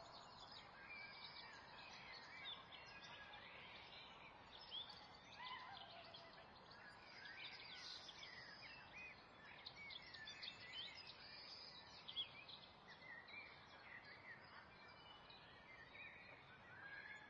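Faint birdsong: many small birds chirping and twittering throughout, over a low steady hiss.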